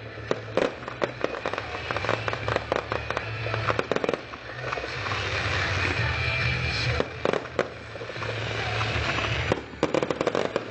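Fireworks going off: rapid crackling pops and bangs in dense clusters, thickest in the first few seconds, again about seven seconds in, and near the end.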